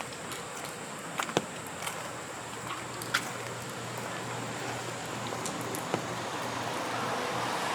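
Rain on a street: an even hiss with scattered sharp taps of drops, the hiss swelling steadily toward the end.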